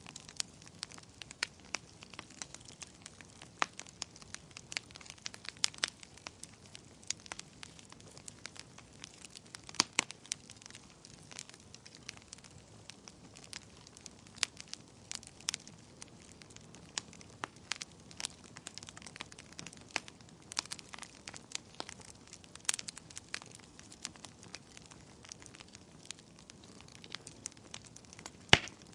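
Wood fire crackling in a fireplace: irregular sharp pops and snaps, several a second, over a faint steady hiss of burning.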